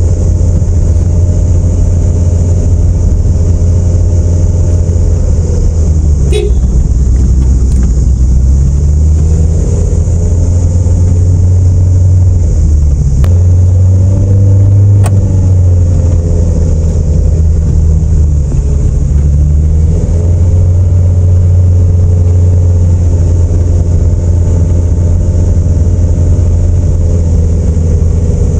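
A car's engine and road noise heard from inside the moving car. The engine's low note rises and falls a few times as the speed changes, over a steady hiss, with a few light clicks.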